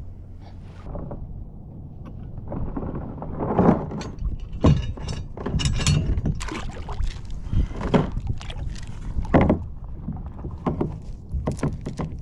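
Irregular knocks and clunks on a kayak as it is paddled or has gear moved about on it, starting a couple of seconds in over a low rumble.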